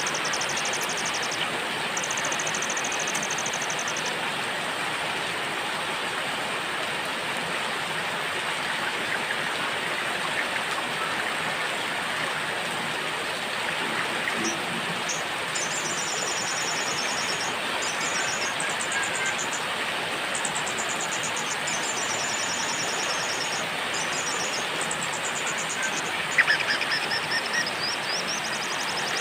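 Steady rain hiss with a small songbird singing very fast, high trills in short phrases. There are two phrases in the first few seconds, then a gap, and from about halfway the phrases follow one another almost without pause.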